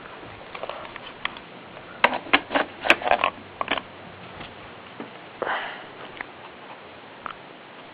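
A quick run of sharp clicks lasting about a second and a half, then a single short breathy sniff about five seconds in.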